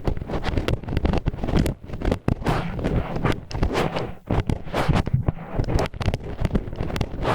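Disposable wooden chopsticks used as an ear pick, scraping and grinding against the ear wall of an ASMR ear microphone: a dense, irregular rasping with many small clicks and brief pauses.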